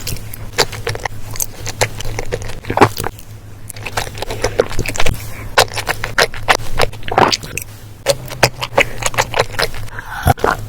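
Close-up eating sounds: irregular sharp crunches and clicks of food being bitten and chewed, in clusters with brief pauses, over a steady low hum.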